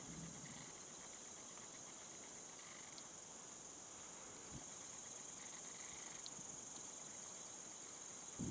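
Faint, steady high-pitched chirring of night insects, such as crickets.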